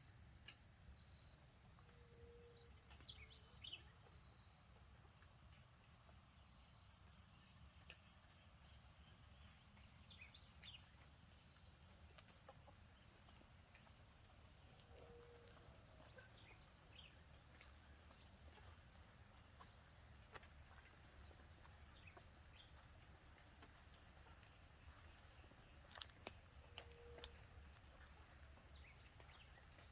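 Faint chorus of crickets: one continuous high trill with a second, pulsing chirp repeating about once a second. A short low call sounds faintly three times.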